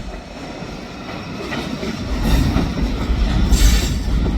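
Train cars rolling past on the track with a clickety-clack of wheels over the rails. The low rumble grows louder about halfway through, and a short hiss comes near the end.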